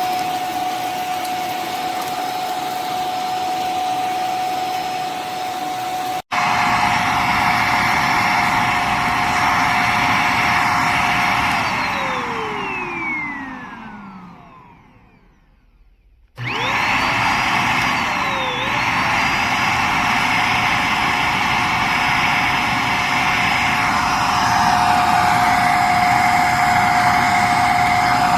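Corded stick vacuum cleaner's motor running with a steady whine. It is switched off and winds down in falling pitch to near silence, then is switched back on about two seconds later and spins up again, running steadily to the end. There is a brief dropout about six seconds in.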